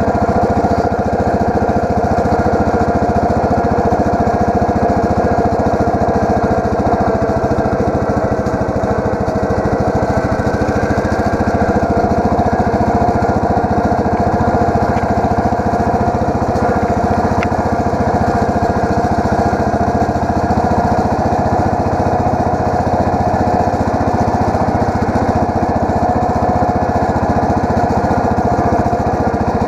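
Allis-Chalmers 716H garden tractor engine running steadily at an even speed.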